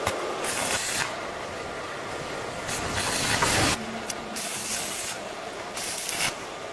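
Several short bursts of hissing spray, about four in all, the longest and loudest about a second long near the middle, over a steady background noise.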